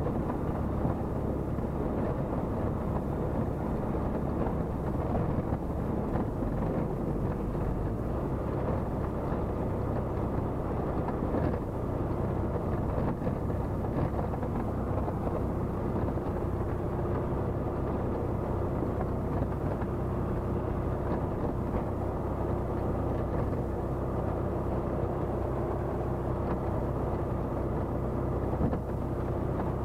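Steady drone of a Tecnam P96 Golf's Rotax 912 flat-four engine and propeller, with a steady tone coming through more clearly from about halfway on.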